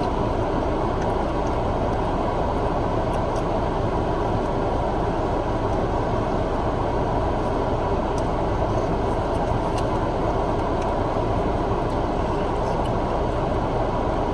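Steady low rumble and hum, like a vehicle cabin with the engine running, with a few faint small clicks.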